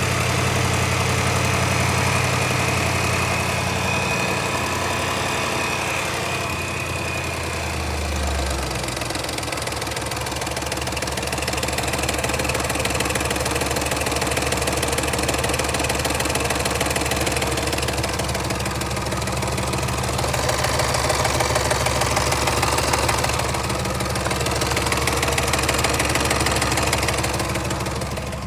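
Land Rover 5.0 supercharged V8 engine idling with a timing chain rattle, the sign of a failed chain tensioner. The engine note settles to a lower idle about eight seconds in.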